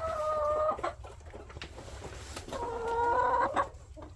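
A chicken fussing: two drawn-out, held calls of about a second each, one right at the start and another about two and a half seconds in.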